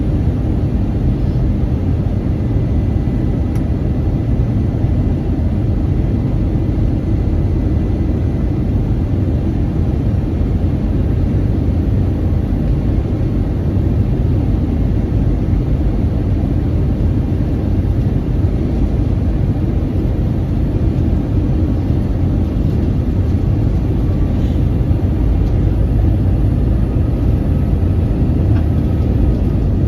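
Steady low rumble of an Airbus A321's cabin: its engines and rushing air, heard from inside the cabin, swelling slightly near the end.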